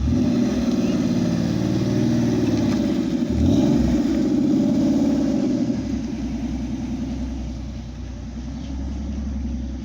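A car engine running loudly with a brief rise in revs about three and a half seconds in, then growing quieter as the car moves off.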